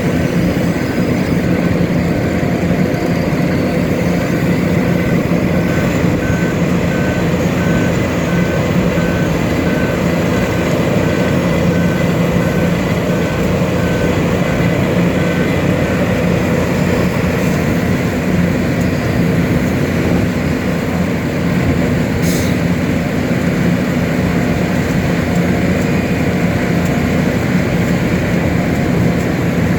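Diesel engines of heavy asphalt-paving machinery running steadily, with a reversing alarm beeping at an even pace for roughly the first half.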